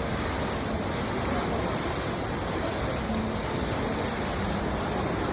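Water pouring steadily down a 15-metre indoor waterfall, a constant even rush.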